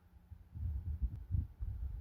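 Low, irregular rumbling thumps on the microphone, starting about half a second in.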